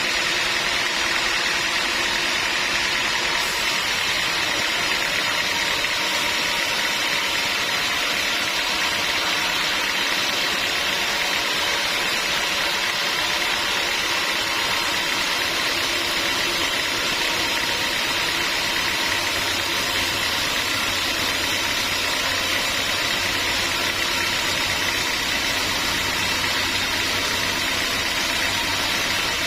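Sawmill machinery running steadily, an even mechanical hum and hiss with no revving or cutting strokes; a low hum grows slightly stronger about two-thirds of the way through.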